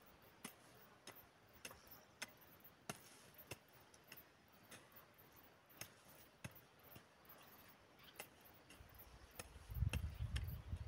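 Garden hoe chopping into the soil of a potato patch to clear weeds: faint, sharp ticks of the blade at a steady pace, a little under two a second, with a few low thumps near the end.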